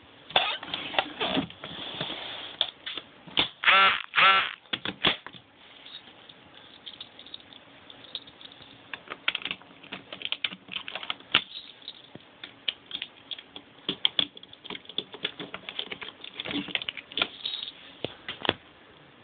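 Irregular clicking and tapping, like keys or buttons being pressed, with two short warbling electronic tones about four seconds in.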